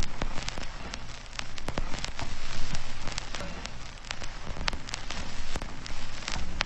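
Steady ambient patter of rain on a surface, dense with small sharp ticks, over a low steady hum.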